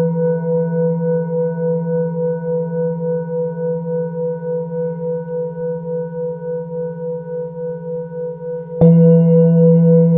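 Singing bowl ringing: a low hum with a higher tone that wavers about four times a second, slowly fading. Near the end it is struck again and the ring swells back up.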